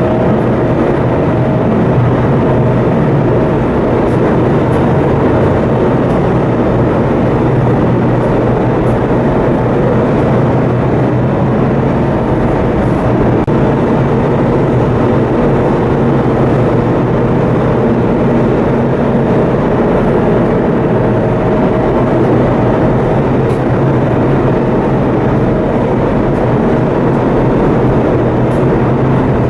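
Steady, loud drone of a coastal cargo ship's diesel machinery running under way, with a low hum and a few faint steady tones running through it.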